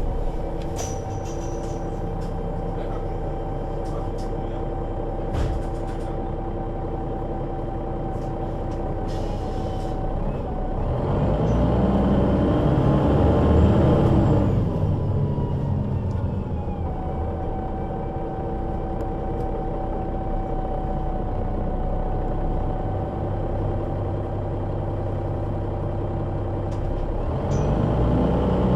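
Solaris Urbino 12 III city bus's diesel engine, driving through a Voith automatic gearbox, running at a steady low speed. About halfway through its pitch rises as it speeds up and then falls again. It settles back to a steady tone and starts rising again near the end.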